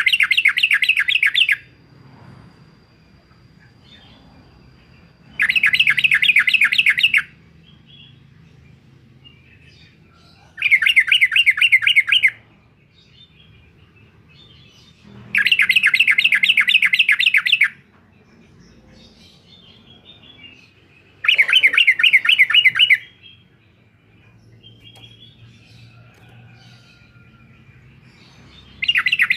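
Yellow-vented bulbul singing its fast trilled 'uklik-uklik' phrases. Five loud phrases of rapidly repeated notes come about every five seconds, each lasting about two seconds, with faint softer calls between them.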